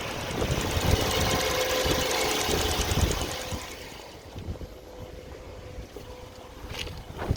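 BMW 318i's N43 four-cylinder petrol engine running, an engine with an intermittent knock. It is louder for the first three seconds or so, then settles to a lower, steadier level.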